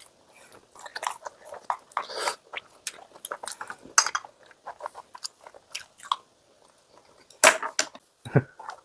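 Close-up chewing and biting of crispy boneless fried chicken thigh pieces, an irregular run of wet crunches and mouth sounds, with two louder crunches near the end.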